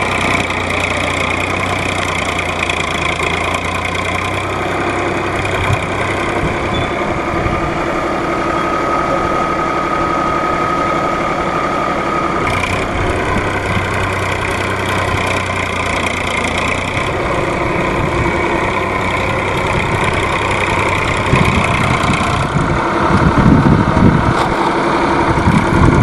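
Small electric motor and gears of a homemade mini tractor running steadily, with a brief higher whine in the middle and irregular low knocks in the last few seconds.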